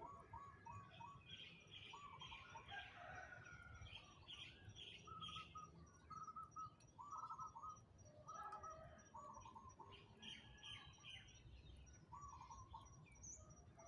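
Faint birdsong: several small birds chirping in short, repeated notes, over a faint low rumble.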